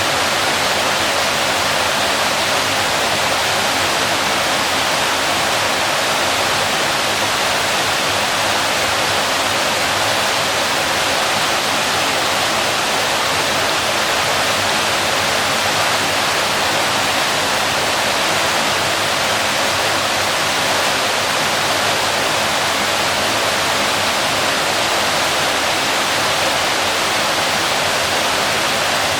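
Waterfall rushing, a steady dense roar of falling water with no breaks or changes.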